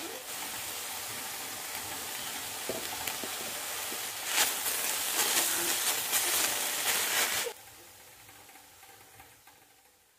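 Kale sizzling in a stainless steel pan, with a metal spoon stirring and scraping the greens against the pan from about four seconds in. The sound drops suddenly about seven and a half seconds in, leaving a faint hiss that fades away.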